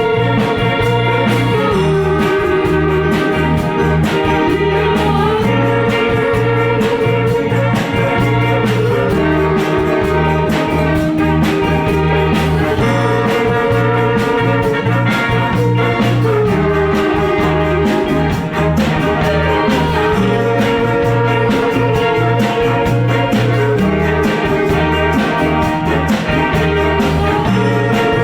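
A band playing a pop song in rehearsal: steady drum beat, a bass line that moves every couple of seconds, and sustained chords on top.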